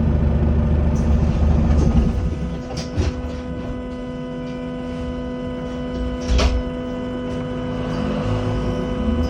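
Volvo B5LH hybrid bus running, heard on board: a loud low rumble for about two seconds drops away, leaving a steady whine. Two sharp knocks come about three and six and a half seconds in, and a rising whine starts near the end.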